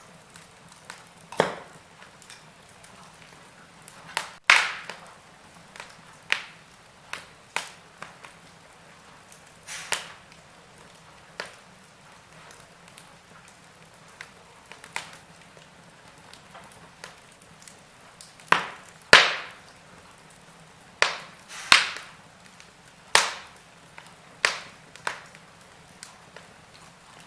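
Wood fire burning in a fireplace: irregular sharp crackles and pops of burning wood over a low hiss, several loud pops clustered in the second half.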